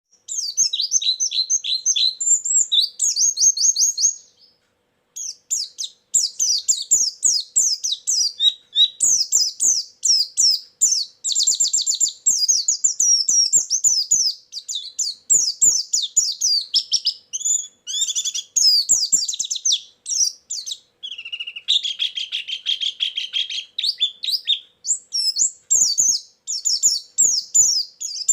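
White-eye (pleci) singing a fast, high twittering song of rapid chirps, packed with other birds' phrases (isian), as used to lure birds. It pauses briefly about four seconds in, and a lower buzzy trill runs for a couple of seconds about three quarters of the way through.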